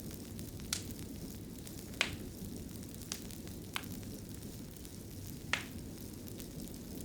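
Wood fire crackling in a fireplace: a steady low rush of burning with about five sharp pops scattered at irregular intervals, the strongest about two seconds in and past the middle.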